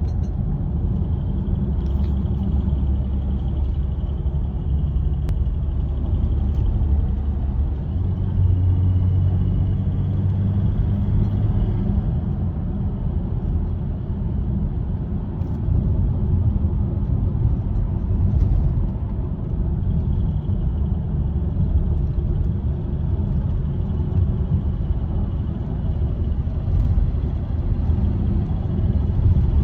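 3.0 TDI V6 diesel engine (engine code CASA) running steadily with a low rumble, recorded to show a ticking noise from the engine.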